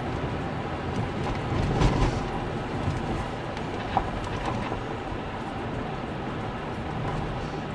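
A vehicle running steadily over rough ground, with a couple of jolts about two seconds in and a short knock near the four-second mark.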